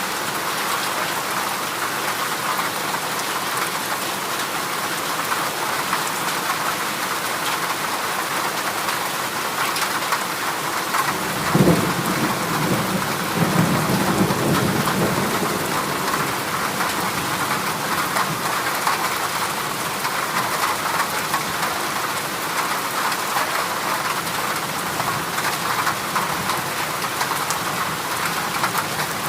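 Heavy rain drumming steadily on corrugated zinc roof sheets. A roll of thunder breaks in sharply about twelve seconds in and rumbles away over a few seconds.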